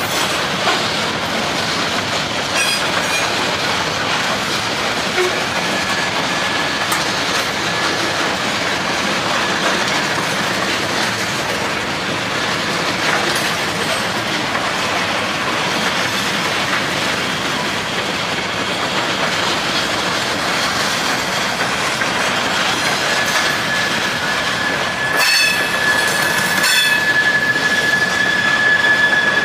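Open hopper cars of a long freight train rolling past: a steady rumble of steel wheels on rail with scattered clicks from the rail joints. A high, thin wheel squeal comes in faintly a few seconds in and grows much louder in the last few seconds, with a brief burst of shriller squeals near the end.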